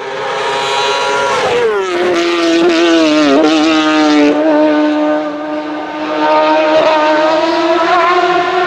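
Hillclimb race car engine at high revs. Its pitch drops about a second and a half in and wavers for a moment, then holds high and steady, easing briefly about two thirds of the way through before it picks up again.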